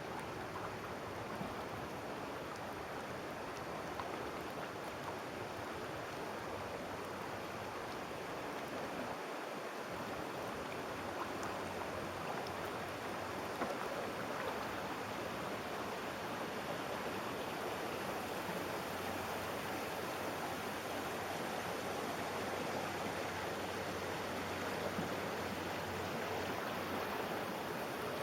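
Creek rapids rushing steadily, the creek running high after a week of heavy rain.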